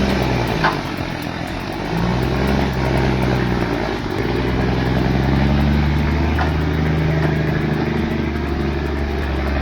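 A heavy vehicle's engine running under load. Its pitch shifts a couple of times early on and then holds steady.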